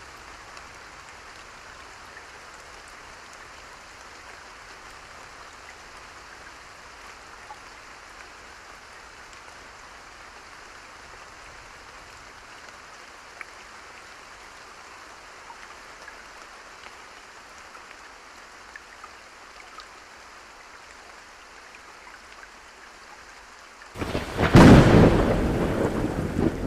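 Steady rain falling, then near the end a sudden loud thunderclap that breaks out and rolls on, slowly fading.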